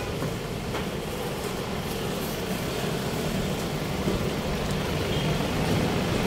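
Steady city traffic noise: a low, even hum of vehicles passing, with a faint click or two near the start.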